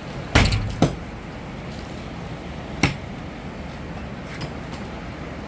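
Three sharp knocks of hard objects being struck, two about half a second apart near the start and a third about three seconds in, over a steady low background noise.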